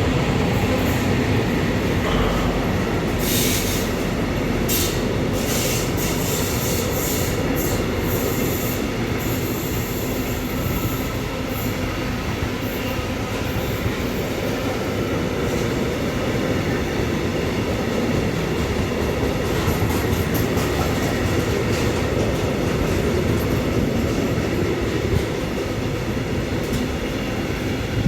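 A train running through the station on the rails, a steady, dense rumble of wheels and track, with a series of sharp high-pitched bursts between about three and nine seconds in.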